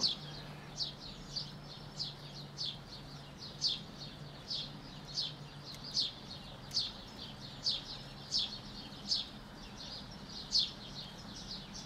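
A small bird chirping over and over, about two short high chirps a second, each one a quick downward sweep in pitch.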